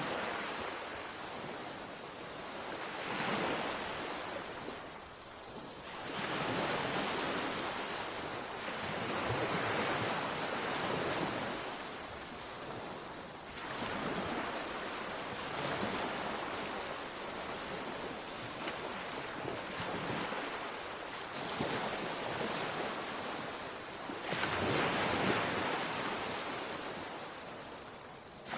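Sea waves breaking, the surf noise swelling and easing every few seconds.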